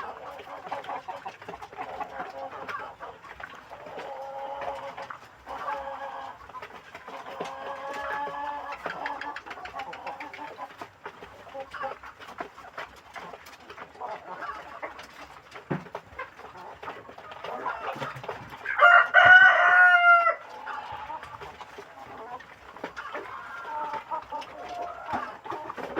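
A flock of chickens clucking almost without a break. About three-quarters of the way through, a rooster crows once, and this is the loudest sound.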